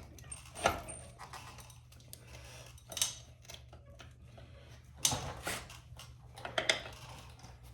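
Hand tools and metal motorcycle parts clinking and knocking, several separate sharp clinks scattered through, over a low steady hum.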